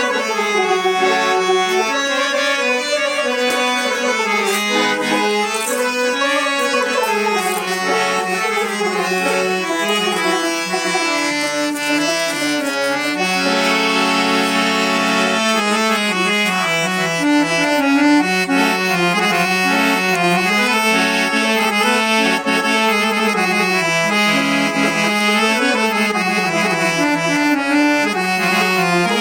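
Harmonium with a built-in Casio keyboard, played together for an organ-like tone: a reedy melody over sustained chords, with one long held chord about halfway through.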